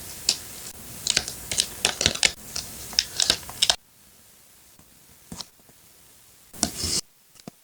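Paper craft materials being handled for a collage: crisp paper rustles, taps and clicks in quick bursts for the first few seconds, then quieter with a couple of isolated rustles near the end.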